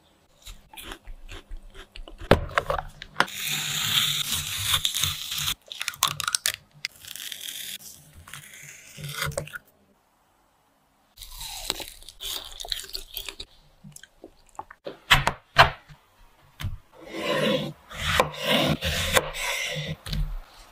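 Crunching and chewing as frozen strawberry ice pops are bitten into and eaten, in several spells of crunching broken by a short silence about halfway through.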